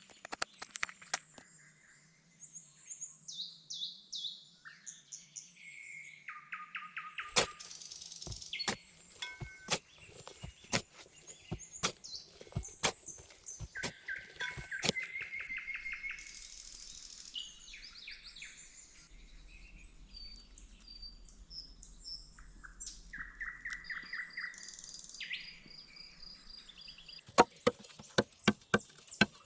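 Songbirds chirping and trilling in short phrases, with scattered sharp taps and knocks and a quick run of taps near the end.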